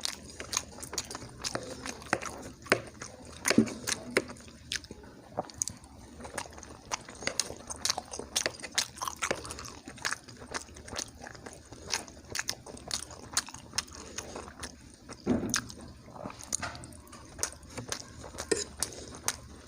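A person chewing soft food close to the microphone, with many small, irregular wet mouth clicks and smacks.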